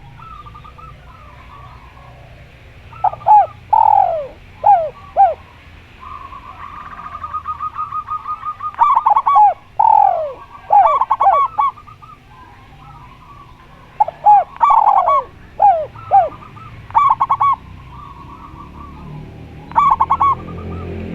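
Spotted dove and zebra dove cooing in turn. Groups of three or four loud, falling coo notes come several times, and about six seconds in there is a rapid, even run of short higher notes lasting a couple of seconds. Faint chirping and a low rumble sit underneath.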